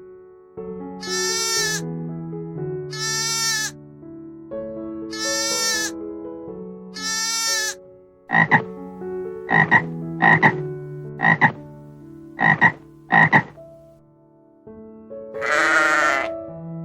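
Frog croaking over soft instrumental music. Four long calls come first, then a run of short, sharp croaks mostly in pairs, and a longer call near the end.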